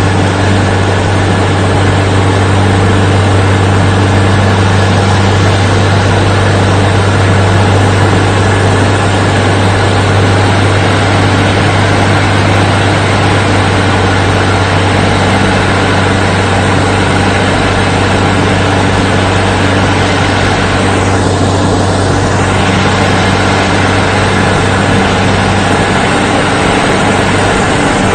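Engine running with a steady, loud low drone that holds an even pace throughout.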